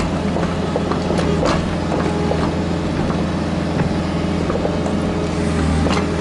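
Diesel engine of a Kubota KX121-3 mini excavator running steadily, with scattered knocks and clatter over it.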